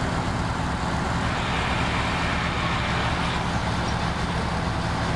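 Heavy diesel engine running steadily at idle, with a fast, even low throb.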